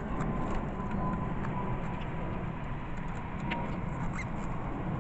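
Steady low outdoor rumble with a thin steady tone held in the background that fades out near the end, and a few faint ticks.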